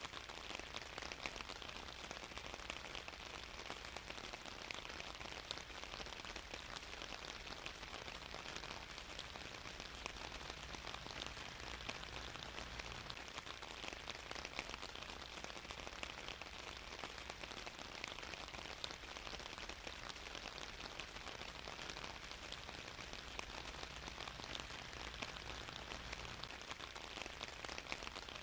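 Steady rain falling on a surface, a dense even patter of drops with no let-up.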